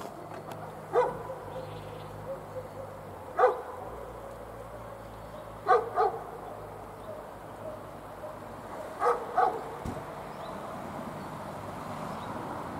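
A dog barking every few seconds, in single barks and quick pairs.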